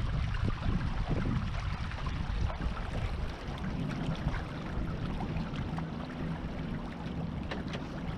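Wind buffeting the microphone and water washing along the hull of a small sailboat under way, a continuous rushing noise with a low rumble.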